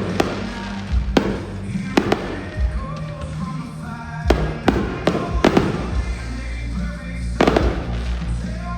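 Fireworks bursting in an irregular string of sharp bangs, about nine of them, over music playing throughout.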